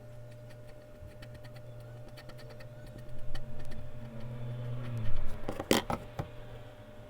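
Hand-drawing sounds of a mechanical pencil and eraser on paper: a run of light ticks, then louder rubbing, then a few sharp knocks of the tools on the desk about five to six seconds in. A steady electrical hum runs underneath.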